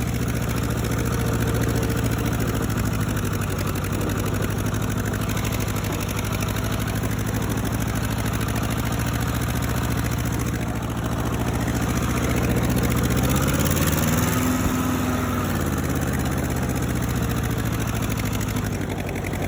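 Ford 8N tractor's four-cylinder engine running steadily. About two thirds of the way in it revs up, rising in pitch, then settles back.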